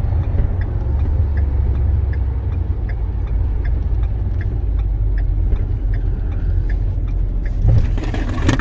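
Cab-interior sound of a 2011 Ford F-450 bucket truck on the move: the 6.7 L Power Stroke V8 turbo-diesel and the road give a steady low rumble. A light ticking repeats about twice a second, and there is a single thump near the end.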